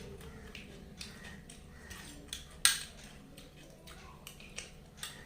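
Light, scattered clicks and taps of plates and food being handled during a meal, with one sharper clink about two and a half seconds in.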